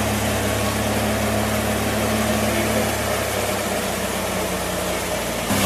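Off-road vehicle engine idling steadily as a low, even hum. It turns abruptly louder near the end.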